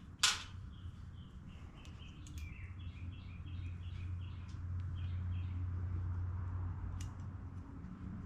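A bird chirping in the background: a quick run of short, high notes over about four seconds, over a steady low hum. A sharp click just after the start.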